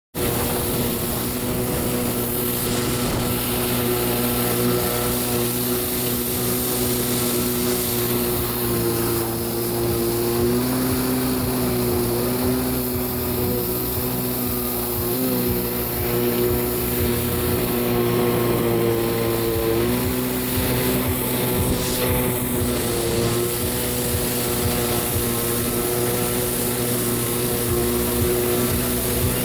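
Kawasaki 650SX stand-up jet ski's two-stroke twin engine running steadily, its pitch shifting a little now and then, over a steady hiss.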